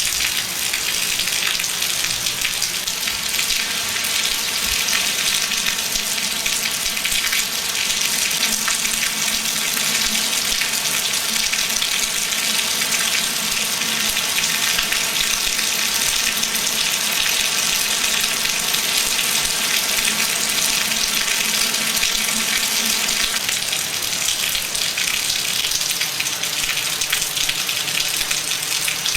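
Heavy hurricane rain pouring down in a steady, unbroken hiss.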